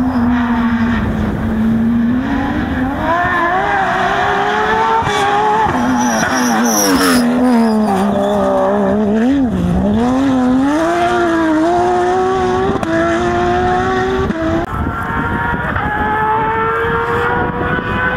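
Porsche 911 rally car's flat-six engine at full stage pace, its note rising and falling as the driver revs and lifts through a run of corners, then climbing steadily under acceleration with an upshift about fifteen seconds in.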